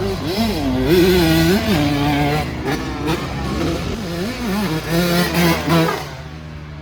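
85cc two-stroke motocross bike engine revving hard, its pitch climbing and dropping again and again through the gears on a timed lap. It backs off about six seconds in.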